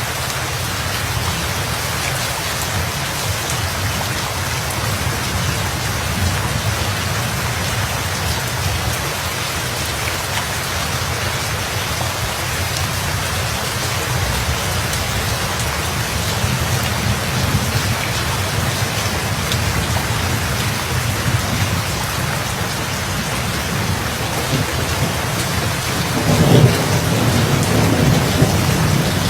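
Steady rain falling, with a low thunder rumble underneath. A louder roll of thunder swells up near the end.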